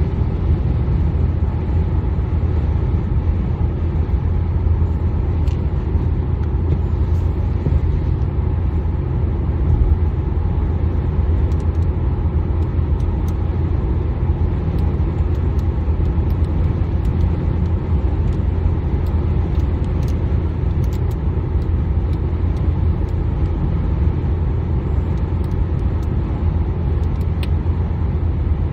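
Steady low road rumble of a car driving on the highway, heard inside the cabin, with a few faint ticks now and then.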